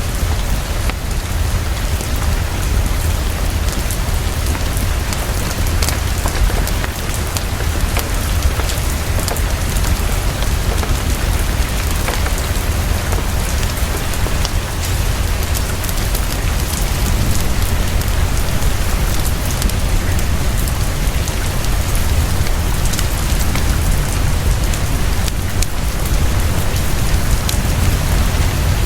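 Heavy, fast, steady rainfall pattering on a surface, with a deep low rumble under it and fine crackle-like ticks throughout.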